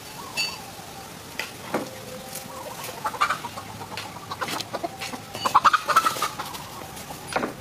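A bird's clucking, squawking calls, short and repeated, growing busier and louder about two-thirds of the way through.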